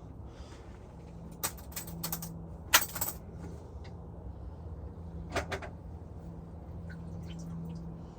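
Several short clicks and clatters of hard objects being handled, loudest about three seconds in and again just past five seconds, over a steady low rumble and a faint hum.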